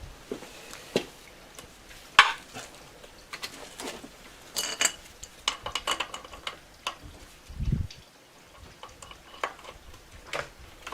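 Metal tools and parts clinking and knocking as they are picked up and handled, with one short metallic ring partway through and a single dull thump later on.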